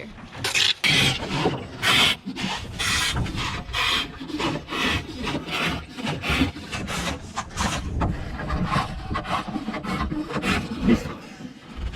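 Hand pump being worked to pump rainwater out of a dinghy, in regular strokes about two a second that grow weaker over the last few seconds.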